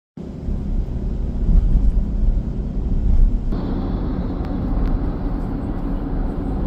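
High-speed train running, a steady low rumble; about three and a half seconds in it changes abruptly to a brighter, broader running noise with a steady hum.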